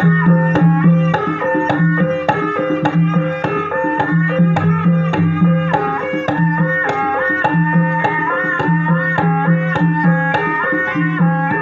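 Javanese ebeg accompaniment music: quick hand-drum strokes under a melody of held, stepping notes, with a low tone that keeps coming back in short runs.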